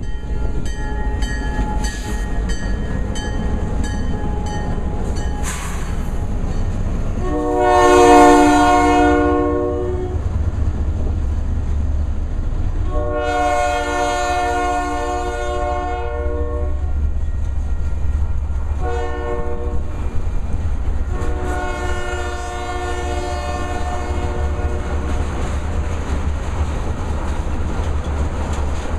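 Diesel locomotive air horn sounding the grade-crossing signal, long, long, short, long, over the steady low rumble of the train: the first long blast is the loudest and the last is held longest and fainter. A run of regular clicks sounds in the first few seconds.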